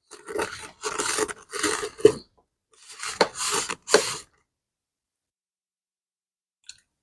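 Scrubbing strokes on a leather bag during cleaning, about five rasping rubs in the first four seconds, then they stop.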